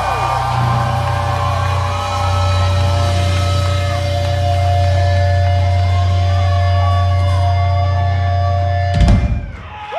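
Live metalcore band holding a heavy, ringing final chord on distorted guitars and bass, which ends with a sharp hit about nine seconds in and drops away.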